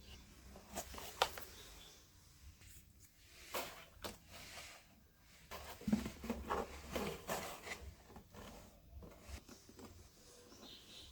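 Cardboard and small hand tools being handled on a work surface: scattered light clicks and taps with short bursts of rustling and scraping, busiest about halfway through.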